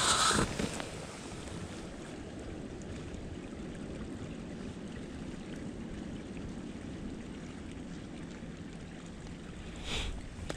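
Steady rushing of a woodland stream, with a short rustle or step right at the start and another near the end.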